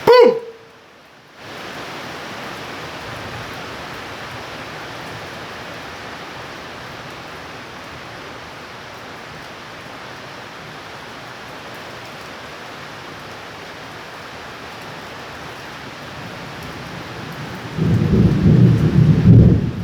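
Steady rain hissing in a thunderstorm, then about eighteen seconds in a loud low rumble of thunder breaks in. At the very start a brief loud blip is followed by about a second of quiet.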